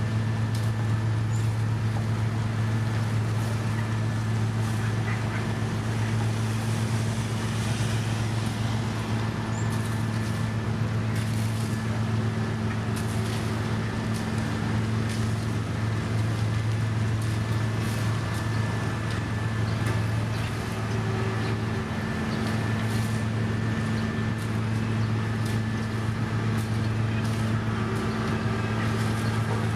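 Diesel engine of heavy road-construction machinery running at steady speed, a constant low drone with a faint high whine above it.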